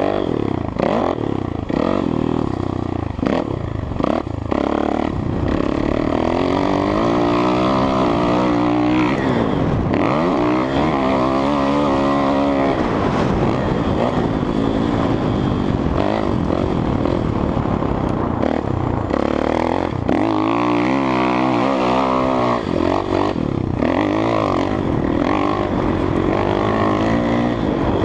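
Kawasaki KX450F dirt bike's four-stroke single-cylinder engine being ridden hard around a motocross track, the revs rising and falling again and again as the throttle is worked through jumps and corners.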